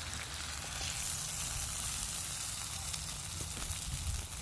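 Steaks sizzling steadily in a frying pan, with a low rumble of wind on the microphone underneath.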